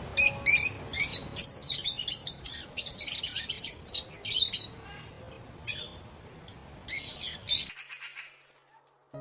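Birds chirping: many short, high calls in quick succession, thinning out after about four seconds and stopping shortly after eight seconds in.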